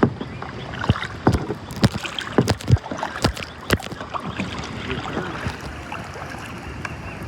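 Water splashing and lapping against a kayak on the move, with many irregular sharp knocks and clicks.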